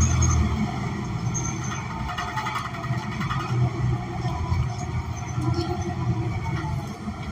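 Interior sound of a New Flyer XN40 city bus with a Cummins Westport ISL G natural-gas engine, riding along. The engine's strong low drone drops away about half a second in, leaving a low rumble of road noise and scattered rattles.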